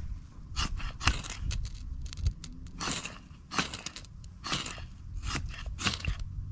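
Dry sticks and kindling being snapped and broken by hand: a run of sharp crunching cracks and scrapes, some drawn out, about one or two a second.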